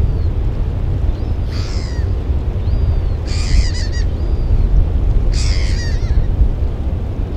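Birds calling over a steady low rumble: three harsh, screechy calls about two seconds apart, with a thin short chirp repeating between them.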